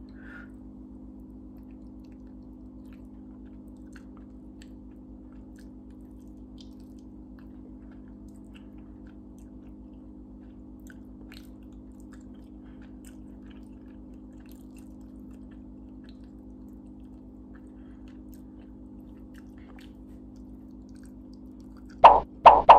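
Faint, scattered clicks of someone chewing a bite of chicken wing, over a steady low hum. A few loud short sounds come in near the end.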